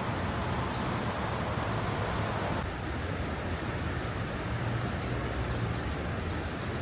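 A motor vehicle's engine rumbling close by, over a steady hiss of rain and wet street. The hiss thins about two and a half seconds in, and a faint thin high whine comes and goes after that.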